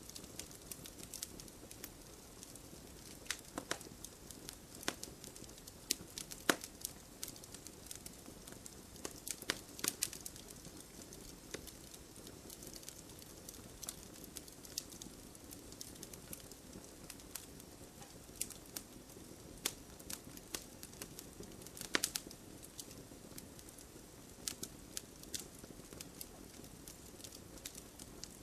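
Campfire crackling: irregular sharp pops and snaps of burning wood over a steady low hiss, with a couple of louder pops along the way.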